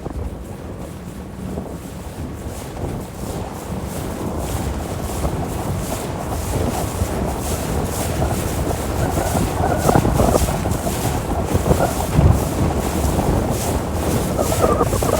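Motorboat running at speed, its rumble mixed with wind buffeting the microphone and water rushing past. It grows steadily louder.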